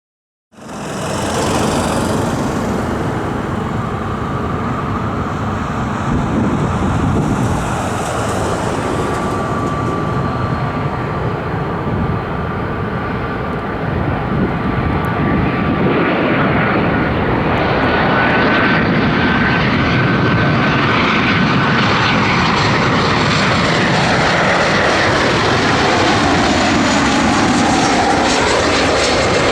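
Jet engines of a Boeing 737-800 (CFM56-7B turbofans) running loud and steady, a dense roar with a thin high whine over it. The sound cuts in suddenly at the start and grows a little louder about halfway through.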